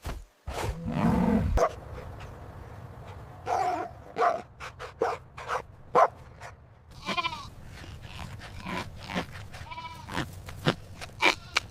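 Sheep or goats bleating: several short calls a few seconds apart, one with a wavering pitch, among sharp clicks. A louder low call sounds in the first second and a half.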